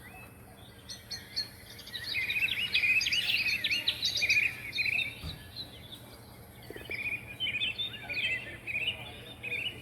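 Small pet birds chirping and chattering in quick, overlapping high chirps, busiest from about two seconds in and again near the end.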